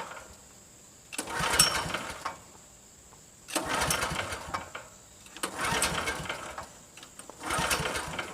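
Sportsman 9000-watt generator's recoil starter pulled four times, the engine turning over briefly with each pull but not catching, because the fuel petcock is shut off and no fuel reaches the carburetor.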